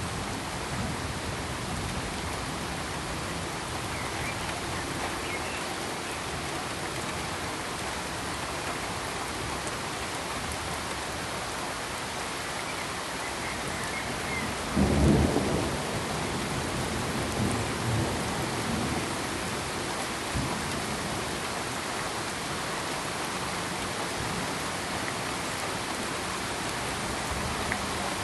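Steady pink-noise hiss, even and unbroken, with a brief loud low rumble about halfway through and a few fainter low rumbles just after.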